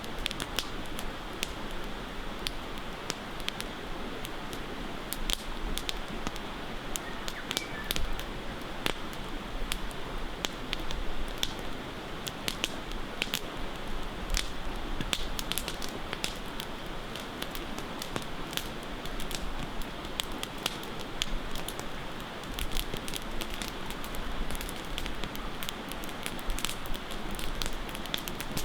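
Campfire crackling, with irregular sharp pops over a steady rushing of flowing water.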